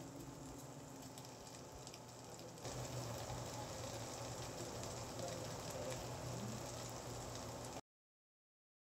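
Chicken tocino sizzling faintly in oil in a nonstick frying pan, a steady crackle that gets a little louder about three seconds in and cuts off suddenly near the end.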